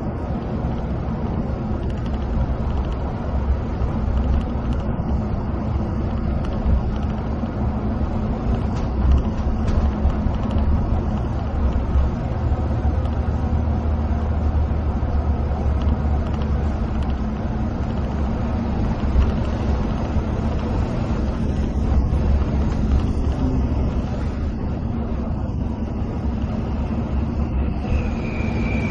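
Steady low rumble of a coach bus cruising on a highway, heard inside the cabin: engine drone mixed with the roar of the tyres on the road.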